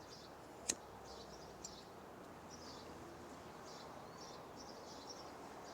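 Faint outdoor ambience with distant birds chirping on and off, and a sharp click just under a second in.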